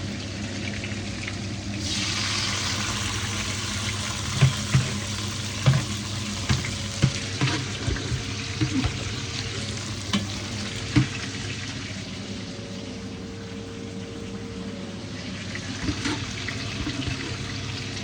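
Onion and fresh tomato sizzling in hot oil in a pan. The sizzle jumps louder about two seconds in. A cooking spoon knocks against the pan a dozen or so times while stirring.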